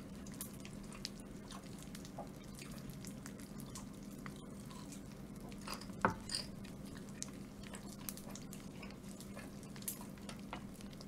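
A person chewing boneless fried chicken sprinkled with carbonated popping candy: quiet chewing with scattered small clicks and crackles, one a little louder about six seconds in, over a faint steady hum.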